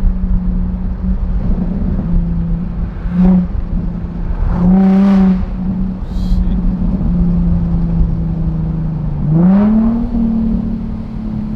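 Straight-piped Infiniti G35's 3.5-litre V6 exhaust droning steadily under way, with two short rev blips about three and five seconds in, and the revs rising and holding higher near the end as the car accelerates.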